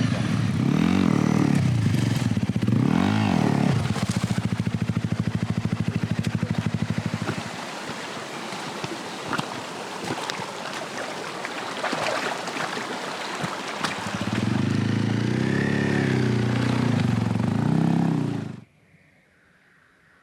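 Honda CRF250L single-cylinder motorcycle engine revved in repeated short bursts, then running more quietly with scattered clicks and knocks for several seconds. It is revved in bursts again, and the sound stops abruptly near the end.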